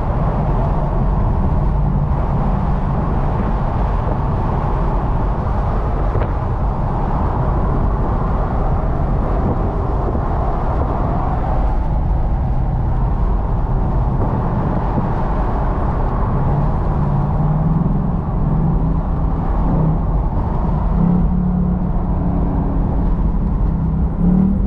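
The Ford Mustang GT's 5.0 L V8 and heavy wind and road noise, heard from the driver's seat of the convertible at highway speed. As the car slows, the 10-speed automatic downshifts and the engine note steps up in pitch several times in the second half, with a louder rev near the end.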